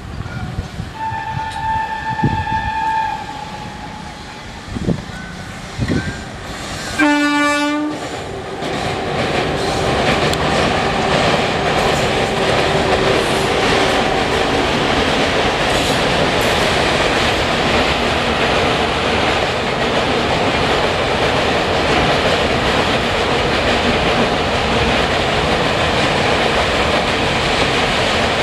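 Electric-hauled passenger train (WAP-7 electric locomotive leading, WAP-4 pushing at the rear) crossing a steel girder bridge. A fainter horn note sounds about a second in, then a short loud horn blast about seven seconds in, followed by the steady loud rumble and clatter of the locomotive and coaches running over the bridge.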